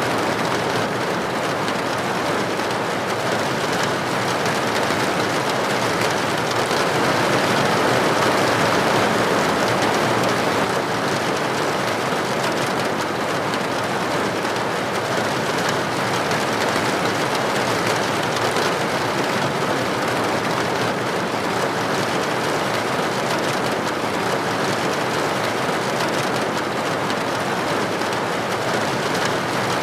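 Steady, even rain falling on a window or roof, with a slight swell about a third of the way through.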